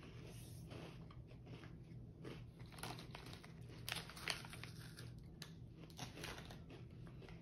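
Faint crunching and chewing of a thick, many-layered dark chocolate and almond wafer bar, with a few sharper crisp cracks from the middle on.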